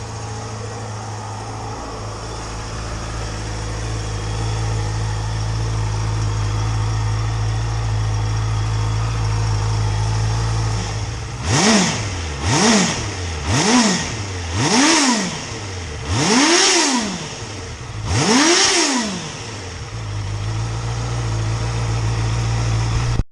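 2015 Honda CB650F's inline-four engine idling steadily through an Akrapovic muffler, then revved six times in quick succession about halfway through, each rev rising and falling, before settling back to idle.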